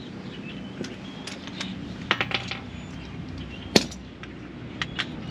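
Metal hand tools clinking and knocking against a pickup's front brake and hub parts: scattered sharp clicks with one loud clank about two-thirds of the way through.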